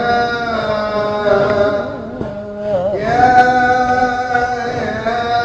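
Male voice singing Arabic Sufi devotional chant (inshad), drawing one syllable out into long held notes with slow melismatic turns. The voice drops away briefly about two seconds in, then takes up a new long held note.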